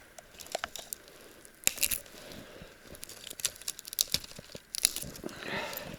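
Dry twigs and brushwood being snapped by hand: irregular sharp cracks with some rustling, the loudest snaps about two seconds in and near the five-second mark.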